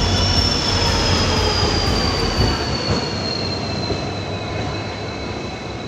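Passenger train's steel wheels squealing on the rails, a loud high squeal over a rumble that slowly falls in pitch and eases off toward the end.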